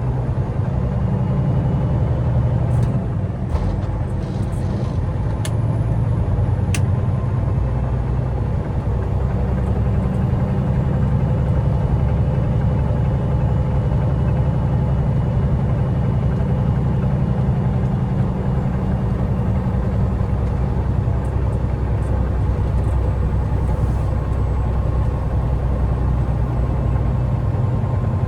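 Semi truck's diesel engine running with a steady low drone, with a few faint clicks in the first several seconds.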